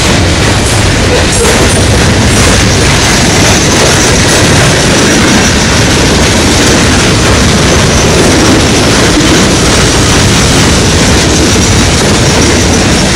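Train passing close by: a loud, steady rumble of wheels on the rails.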